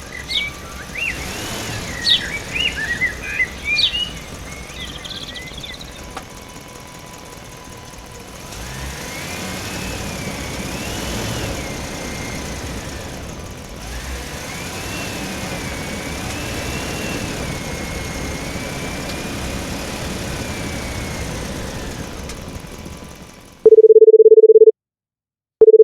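Small motor of a mini model tractor running, its whine rising and falling, with quick chirps in the first few seconds and two loud, steady, horn-like beeps near the end.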